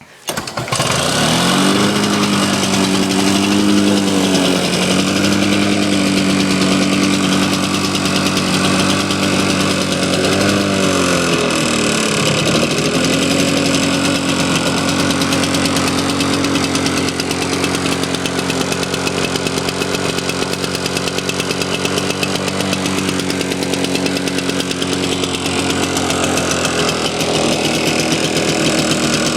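A small lawn mower engine catches and starts running. Its speed sags and picks up again twice, deepest about ten to twelve seconds in, then it runs on steadily.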